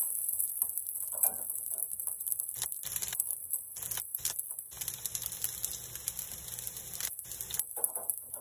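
Rice frying on a hot electric griddle, sizzling and crackling, with clicks and scrapes of a metal spatula at first. Partway through, an egg is cracked onto the griddle and the sizzle gets louder for a couple of seconds.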